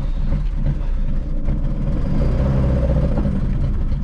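Moskvich 408's four-cylinder engine running at low speed as the car is driven slowly, a little louder about two seconds in. The engine is failing: it is pouring smoke, which the crew suspects is burning antifreeze.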